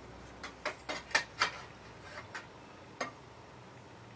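Light, sharp metal clicks and taps of a sheet-metal patch piece being handled and test-fitted: about five in quick succession within the first second and a half, then a few more spaced out.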